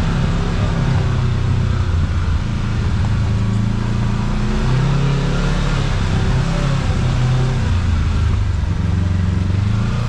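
Kawasaki KRX side-by-side's parallel-twin engine running steadily as it drives along a dirt trail, its pitch shifting up and down a little with the throttle, over a steady rush of tyre and drivetrain noise.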